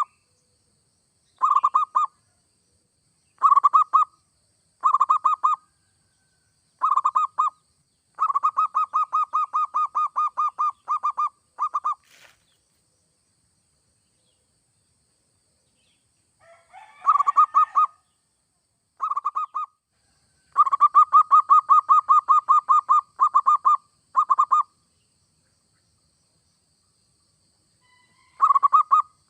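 Zebra dove (perkutut) cooing in phrases of rapid staccato notes, some under a second and some running several seconds, with silent pauses between them. A single sharp click comes a little before the middle.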